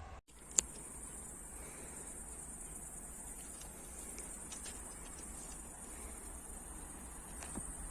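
Crickets chirping in a steady high-pitched trill, with a single sharp click about half a second in.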